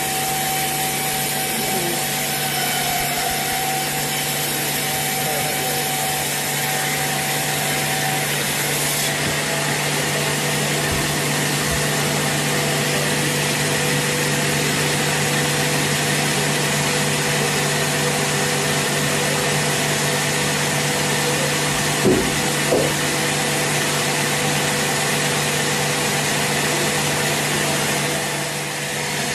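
Sawmill saw running steadily through a teak log, with a constant machine hum under the cutting noise. Two brief knocks come about three-quarters of the way through.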